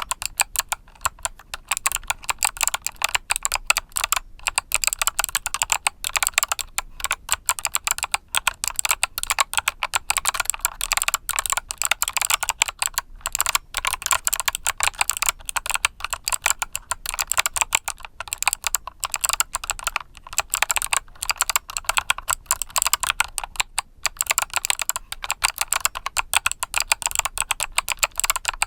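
Steady, fast typing on a mechanical keyboard with Kailh Box Summer switches: a dense, irregular stream of crisp key clicks.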